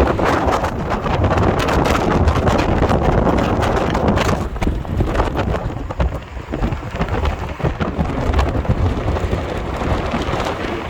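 Wind buffeting the microphone: a loud, uneven rumble with crackling gusts.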